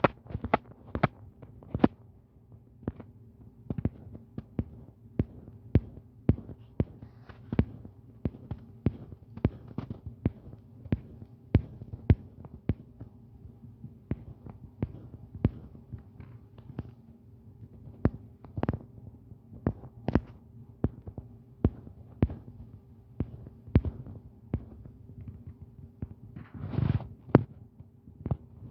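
Irregular sharp clicks or taps, about one or two a second, over a steady low electrical hum.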